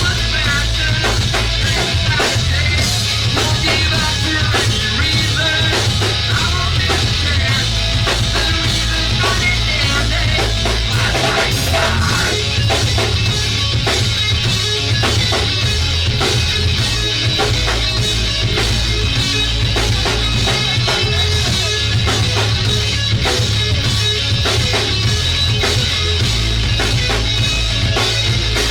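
Live rock band playing a song with a full drum kit, loud and steady throughout.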